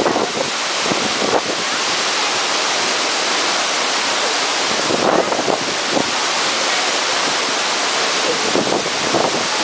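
Steady rushing roar of a tall waterfall, about 40 metres high, with water crashing continuously into the pool below.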